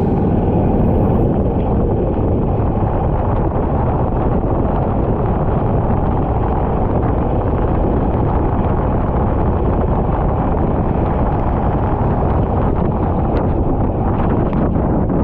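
Racing kart running at speed, its engine noise buried under a steady, dense rush of wind buffeting the microphone.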